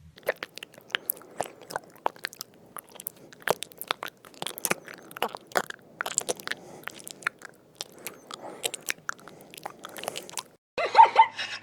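An animal chewing food: irregular crisp crunches and bites for about ten seconds. Near the end it cuts suddenly to louder short animal cries.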